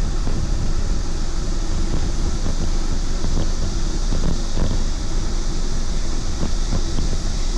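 Wind rushing over the microphone of a camera carried while riding: a steady noise heaviest in the lows, with a few faint knocks from bumps.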